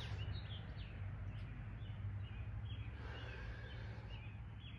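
Birds chirping: many short, high notes in quick series, over a steady low hum.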